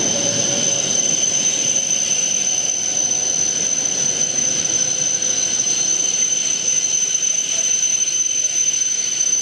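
E7-series Shinkansen train pulling away at low speed, its running rumble easing as the last car goes by. A steady high-pitched whine runs underneath throughout.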